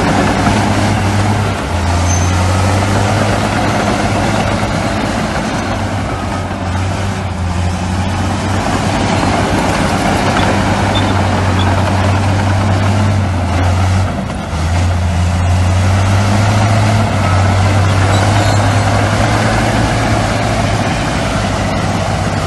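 Heavy diesel construction machinery running steadily under load: a constant low engine drone with brief dips about two seconds in and about fourteen seconds in.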